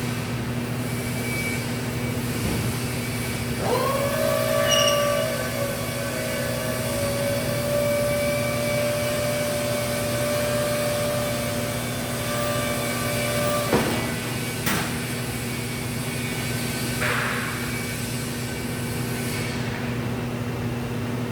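Presto walk-behind battery lift truck's electric hydraulic pump motor whining as it raises the forks: it starts about four seconds in, rises quickly to a steady pitch, runs for about ten seconds and stops with a click. A steady low hum runs underneath, and a click and a short hiss follow a few seconds after the pump stops.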